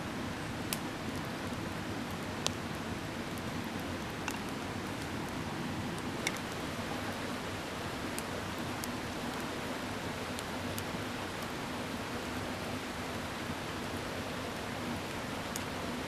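A steady rush of a mountain stream, with a campfire giving occasional sharp crackles and snaps, about nine over the span.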